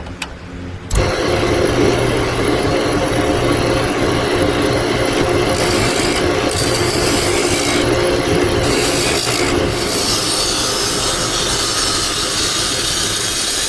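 Wood lathe running while a turning tool cuts into the spinning wooden piece, shaping out its hollow; the cutting starts about a second in and goes on as a steady, continuous scraping over the lathe's low hum.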